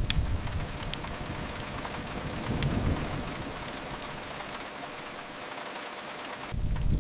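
Steady hiss of rain, with a few sharp crackles from a wood fire. A low rumble fades soon after the start, swells briefly partway through and comes back strongly near the end.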